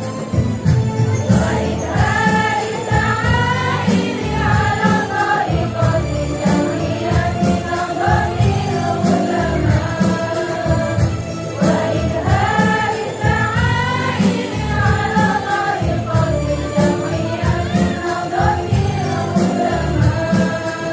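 Women's choir singing an Islamic devotional song (sholawat) in unison over a steady rhythmic accompaniment with jingling percussion; the voices come in about two seconds in after a short instrumental passage.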